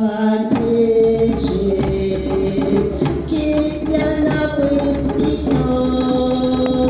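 Choir singing in harmony with long held notes that change every second or two, with drums accompanying.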